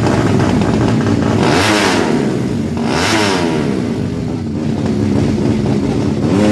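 Tuned 200cc underbone drag-racing motorcycle engine being revved in throttle blips, its pitch rising and falling, with two sharp high revs about a second and a half apart.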